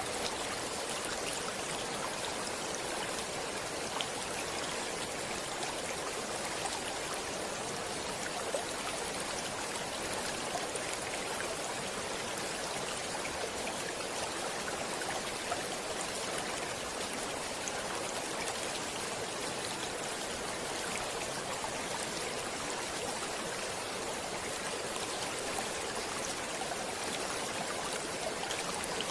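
Stream water flowing steadily over rocks, an even rushing hiss with small splashes and drips.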